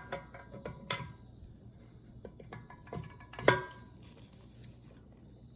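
Scattered light metallic clicks and clinks of small-engine parts being handled as the camshaft is checked for play in the block, with a louder clink about three and a half seconds in.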